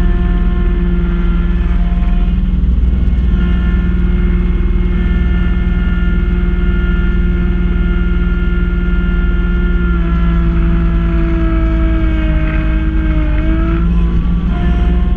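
Kubota B2650 compact tractor's three-cylinder diesel running steadily at working speed, driving a front-mounted B2782 snow blower. About twelve seconds in the engine note sags for a moment, then picks back up.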